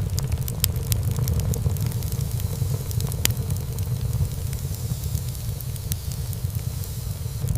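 Wood fire burning in a fireplace: a steady low rumble of flames with frequent sharp crackles and small pops from the burning wood, one louder pop about three seconds in.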